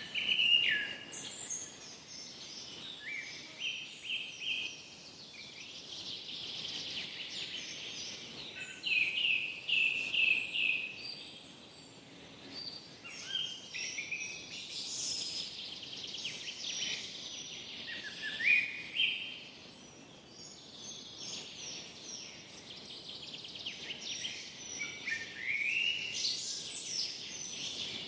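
Forest ambience of birds singing, with repeated chirps and short trills from several birds over a soft steady background hiss.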